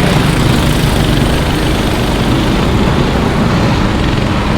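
Go-kart engines running on the circuit, a loud, steady drone.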